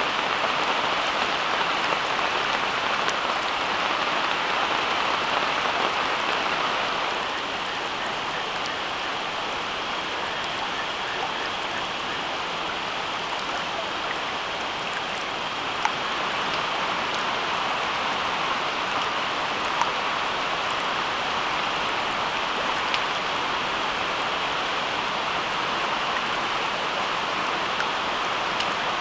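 Steady rain falling: an even hiss with a few sharp drop taps here and there, easing slightly about seven seconds in.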